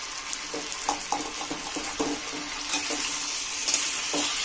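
Chicken and vegetables sizzling in a steel kadhai while a metal spatula stirs and scrapes through them, a few strokes scattered among the steady hiss. The hiss grows louder about three seconds in.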